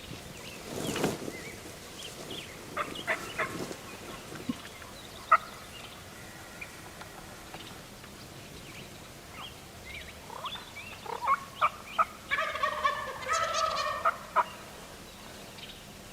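Gould's wild turkey gobbling: one rapid rattling gobble about two seconds long near the end, preceded by scattered short, sharp turkey clucks and yelps.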